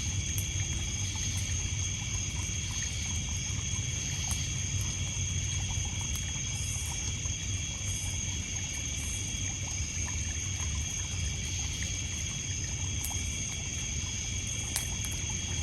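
Crickets and other night insects trilling steadily at several high pitches, over small waves lapping and trickling on a pebble beach, with occasional sharp crackles from a wood campfire.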